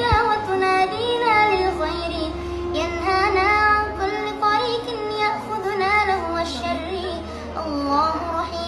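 Arabic nasheed sung by a single high voice in long, pitch-bending phrases over a low steady drone that shifts pitch a few times.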